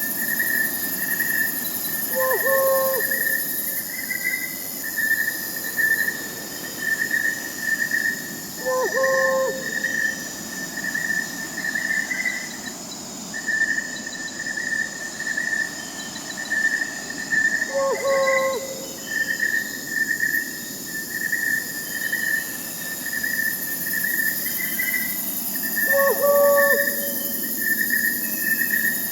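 Crickets chirping in a steady pulsing trill, with an owl calling four times, a short low call about every eight seconds, over a soft steady night hiss.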